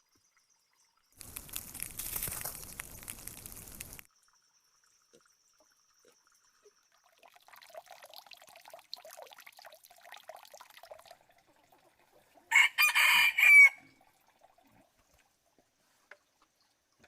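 Water splashing or pouring for a few seconds, then softer trickling and rustling, and near the end a single rooster crow about a second long, the loudest sound here.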